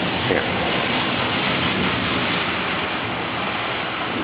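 Heavy rain pouring steadily in a thunderstorm, an even hiss with no thunder clap.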